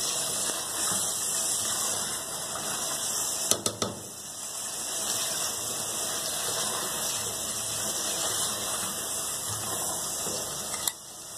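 Chicken masala frying and sizzling in oil in an aluminium pot, stirred and scraped with a spatula, at the bhuna stage where the oil has separated. A few sharp knocks of the spatula on the pot come about three and a half seconds in, and one more near the end.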